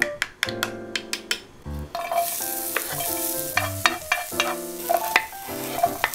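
A wooden spoon stirs and clicks against a small stainless steel pan of beaten egg mixture. About two seconds in, sliced onion starts sizzling in a hot frying pan as it is pushed around and diced mushroom is added. Soft piano-like background music plays throughout.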